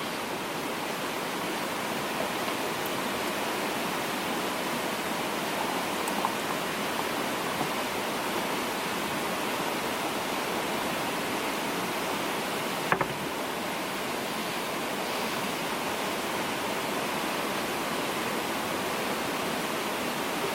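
A steady rushing noise, like running water, continuing evenly throughout.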